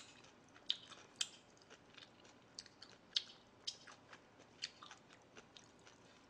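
A person chewing a mouthful of gamjatang (Korean pork-bone stew) close to the microphone: faint, irregular wet clicks and smacks. The sharpest come at about 1 second in and just after 3 seconds.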